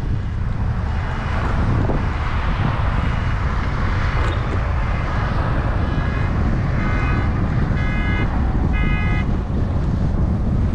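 Wind rushing over the microphone with a steady low rumble while riding an e-bike. About two-thirds of the way in, a few short high-pitched tones sound roughly a second apart.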